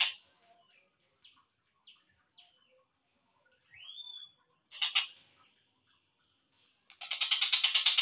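Slowed-down recording of a tengkek buto's call. A fast, evenly pulsed rattling trill cuts off at the start, followed by scattered short chirps and one upward-sliding whistle around the middle. The trill starts again about seven seconds in.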